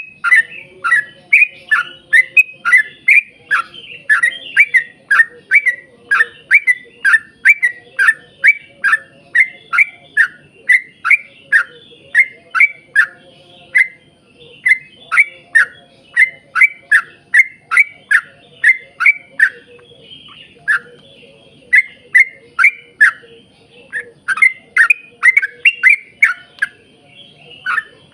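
Yellow-vented bulbul (trucukan) singing a long, fast run of short downward-slurred notes, about two to three a second, broken by a few brief pauses.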